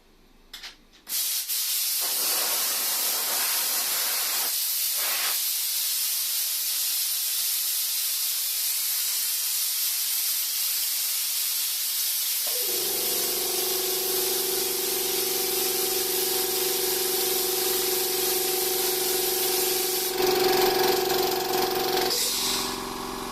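Compressed air hissing out steadily from an air compressor. About halfway through, the compressor's motor starts and runs with a steady hum under the hiss, a little louder for a couple of seconds near the end.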